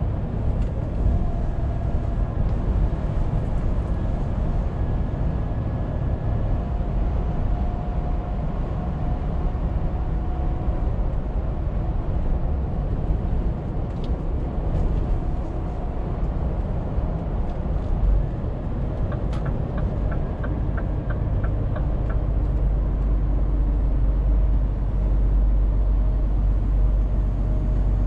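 Scania truck driving along, its engine and the road making a steady low rumble. About twenty seconds in there is a short run of even ticks, roughly three to four a second.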